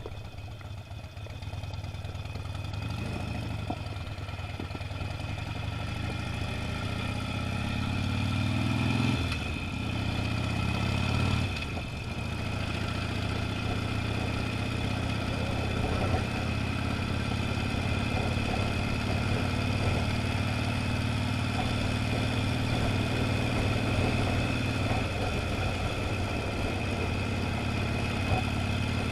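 Motorcycle engine accelerating: its pitch climbs, falls sharply as it shifts up a gear about nine seconds in, climbs and shifts again a couple of seconds later, then settles into a steady cruise.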